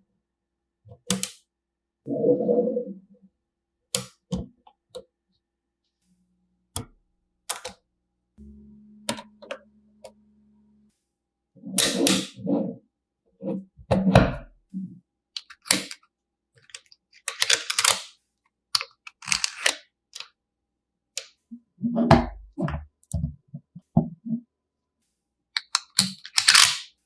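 Plastic magnetic building pieces clicking and clacking together as they are handled and snapped into place, in scattered groups of sharp clicks. A short steady low hum sounds for a couple of seconds about a third of the way through.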